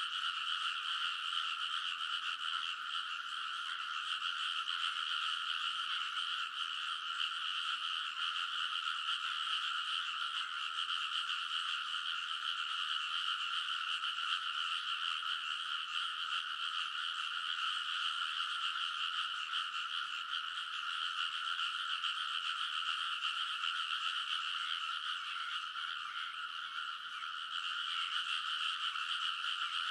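A large chorus of rice-paddy frogs calling all at once, a dense, steady, unbroken wall of croaking at a fairly high pitch in which no single caller stands out.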